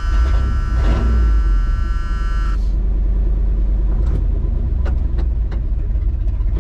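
1979 Ford F-150's V8 engine running, a steady low rumble heard from inside the cab. A steady high tone sounds over it and stops about two and a half seconds in; a few light clicks follow.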